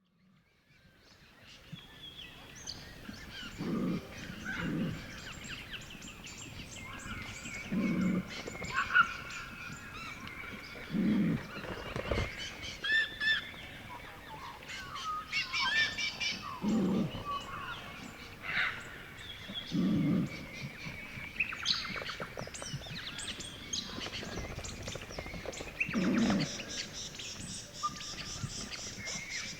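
Many birds calling and chirping together in a busy chorus, with short low sounds recurring every few seconds underneath.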